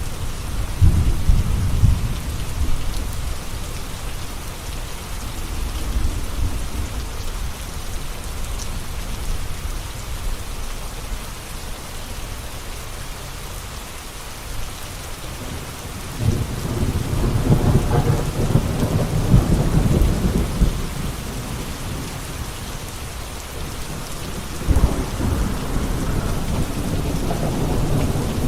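Steady rain falling, with rolls of thunder rumbling over it: one about a second in, a longer, louder roll in the middle, and another near the end.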